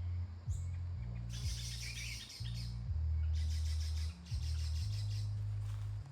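Birds chirping in short clusters over background music with low held notes that change every second or so.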